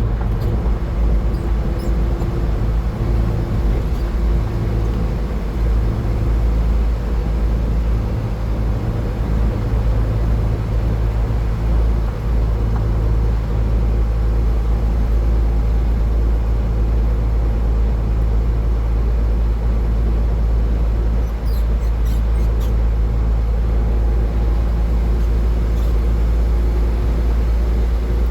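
Steady road noise of a car driving at highway speed: a loud, even, deep rumble of tyres and engine, with a couple of faint ticks about three-quarters of the way through.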